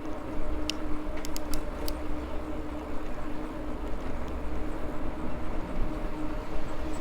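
Maxtron Mule folding e-bike on the move: a steady whine from its electric motor over a rumble of tyres and wind, with a few sharp clicks about a second in.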